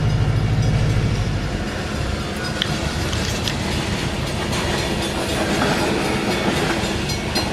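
A train passing close by: a horn sounds until about a second in, then the steady rumble and clatter of the wagons.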